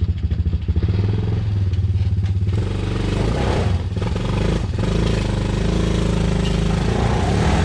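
Honda 250 Recon ATV's small single-cylinder engine pulling under load: a rapid, pulsing engine note that grows louder and fuller about two and a half seconds in, then holds steady as it drags a heavy trailer out of a muddy hole.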